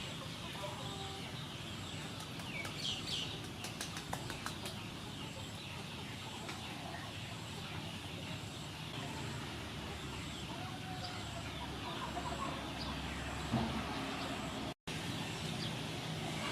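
Short bird calls over a steady hiss, with a quick run of light clicks about three to four seconds in.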